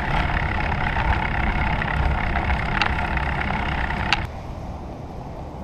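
Bicycle freewheel buzzing steadily as the rider coasts, over low wind rumble on the microphone, with a couple of sharp clicks; the buzz stops abruptly about four seconds in.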